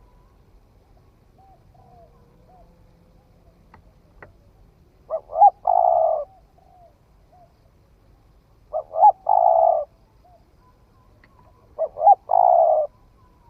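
Spotted dove cooing: three phrases a few seconds apart, each two short notes followed by a longer held note. Fainter short calls come in between.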